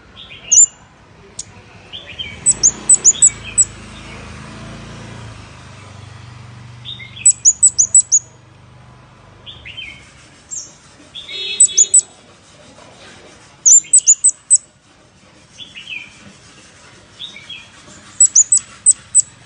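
Flowerpecker calls: runs of four to six sharp, very high chipping notes repeated every few seconds, with single lower downslurred chips between the runs and one short harsh buzzy note about eleven seconds in. This is a lure call used to attract the bird.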